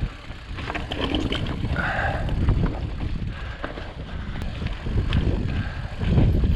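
Ibis Ripley mountain bike riding over rough rock: a steady rumble of wind on the microphone and tyre noise, broken by many small rattles and knocks from the bike.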